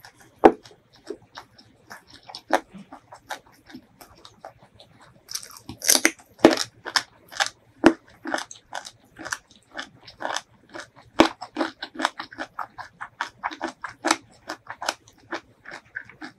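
Close-miked eating of spicy fried chicken wings in curry with rice: chewing with a dense run of short, wet clicks. A few sharper, louder clicks come about half a second in, around six seconds and around eleven seconds.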